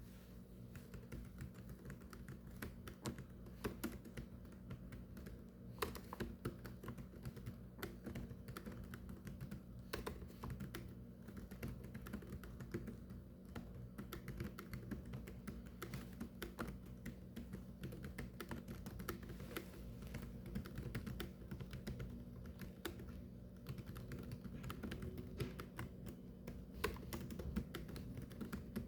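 Continuous typing on a keyboard: fast, irregular key clicks, over a low steady hum.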